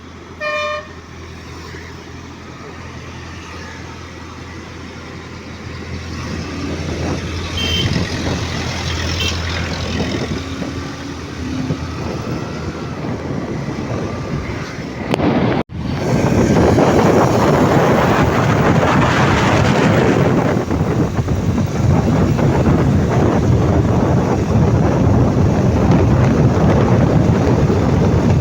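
Road traffic with a short vehicle horn toot about half a second in. After an abrupt cut about halfway through, louder traffic and wind noise buffet the microphone.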